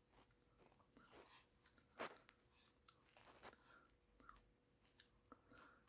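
Near silence: room tone with a few faint clicks, one slightly louder about two seconds in.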